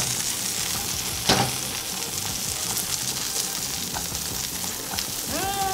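Mushrooms searing in coconut oil and green vegetables frying in a sauté pan being tossed, a steady sizzle throughout. A sharp knock of pan or utensil about a second in, with a couple of faint clicks later.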